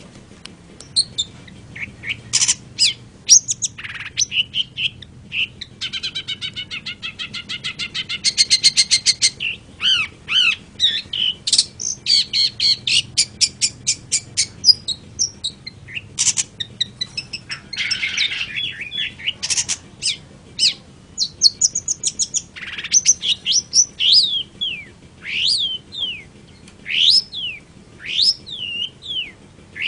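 Long-tailed shrike (cendet) singing a long, varied song: quick chirps, a fast rattling trill, and sharp down-slurred notes.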